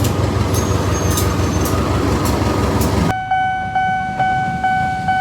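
A train rumbling past with a heavy low drone and scattered clicks. About three seconds in, this cuts off abruptly and is replaced by a steady, high, horn-like tone that pulses faintly about twice a second.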